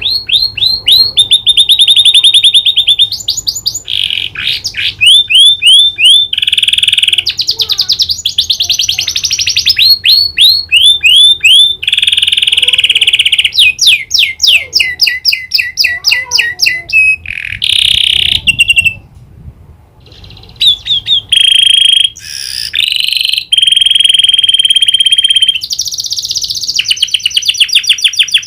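Domestic canary singing loudly in fast trills and long rolls of rapidly repeated notes, its song laced with imitated prinia (prenjak) click notes. The song breaks off briefly about two-thirds of the way through, then resumes.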